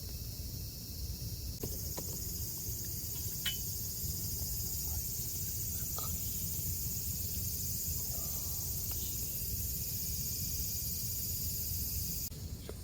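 Steady, high-pitched shrilling of a summer insect chorus. It swells louder a second or two in and falls back near the end, with a few faint clicks underneath.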